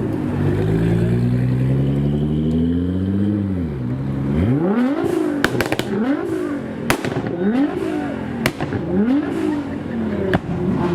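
High-performance car engine held at a steady note for about four seconds, then revved in a series of about six short blips that each rise and fall. Several sharp exhaust pops and cracks come between the revs.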